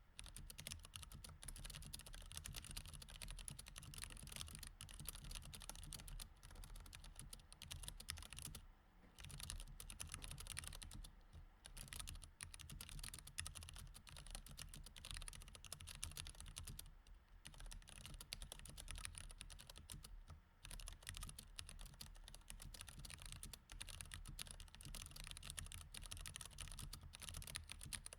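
Mechanical keyboard with Cherry MX Red switches being typed on steadily, a rapid, continuous run of key clicks. There are brief pauses about 9, 11, 17 and 20 seconds in.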